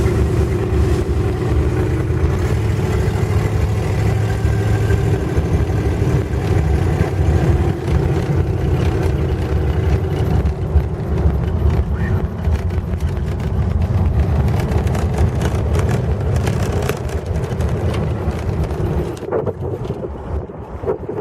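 Classic Ford Thunderbird being driven, its engine running steadily under way with road noise; the sound eases off near the end.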